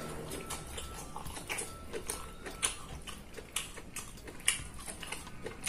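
Close-up sounds of a person chewing food with the mouth: irregular wet smacks and clicks, a few a second.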